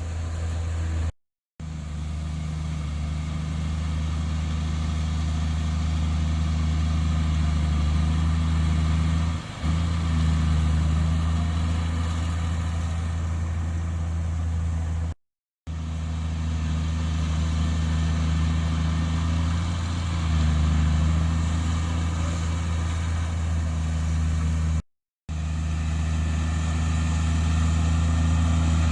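Heavy diesel engine of earthmoving machinery running steadily with a deep, even drone. The sound drops out to silence three times for a fraction of a second.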